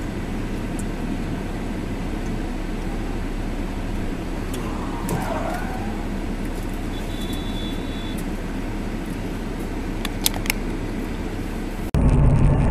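Steady road and engine noise of a moving car, heard from inside the car, with a few faint clicks near the end.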